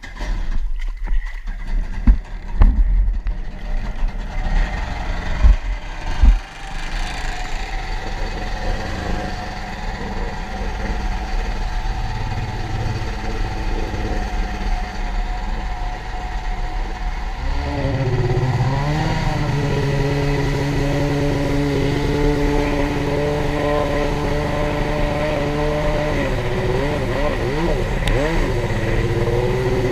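Several sharp knocks, then a Yamaha SuperJet stand-up jet ski engine running low. About 17 seconds in it revs up and holds a steady high speed, the pitch wavering briefly twice, as it runs against the rev limiter.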